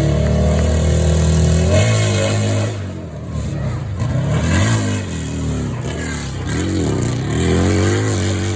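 Motorcycle engine running at a steady pitch, then revved up and down over and over from about two seconds in.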